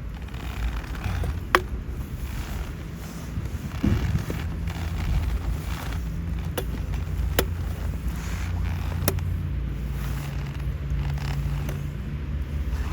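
Steady rain falling on a tarp or tent with a low rumble, broken by four sharp clicks.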